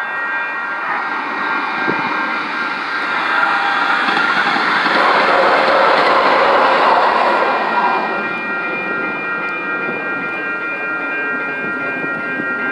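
Metro Blue Line light-rail train passing over a grade crossing. Its wheel and rail noise swells to a peak about five to seven seconds in, then fades, over the steady ringing of the crossing warning bells.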